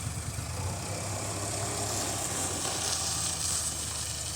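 Heavy diesel engine running steadily at idle, with a low, even hum.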